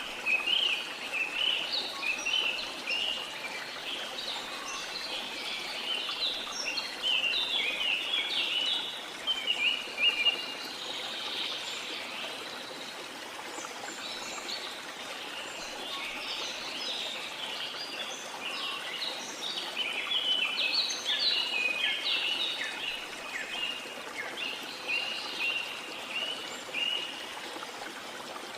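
Small songbirds chirping in rapid, dense twitters over a steady wash of sea water; the chirping thins out for a while mid-way and then picks up again.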